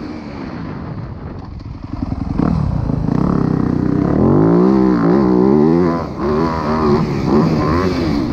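Dirt bike engine being ridden, quieter at first, then louder from about two seconds in, its revs rising and falling repeatedly.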